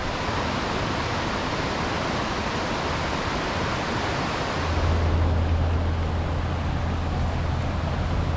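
Steady rushing roar of Wahclella Falls, a waterfall, as an even wash of white noise. About halfway through, a low steady hum joins it and the higher hiss fades a little.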